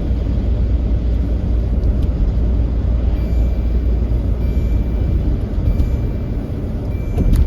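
Steady low rumble of engine and tyre noise inside a moving van's cabin, with a single short click near the end.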